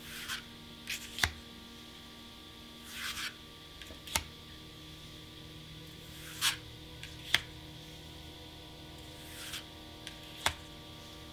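Plastic card sleeves and their packaging being handled: short rustling slides and sharp clicks every second or two, over a steady faint hum.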